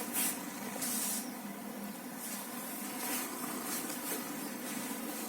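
Domestic cat hissing in several short, irregular bursts over a low steady hum.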